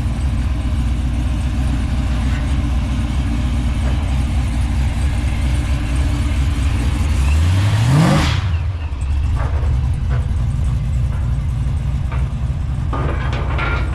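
Car engine running with a steady low rumble, revved once about seven seconds in, its pitch climbing for about a second before falling back.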